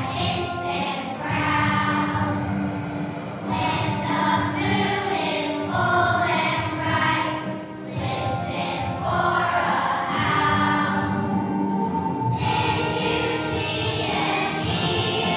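Children's choir singing a song with instrumental backing.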